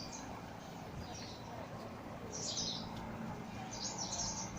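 A flock of birds chirping in a tree: short high calls about two and a half seconds in, then a quicker run of them near the end, over a steady low background rumble.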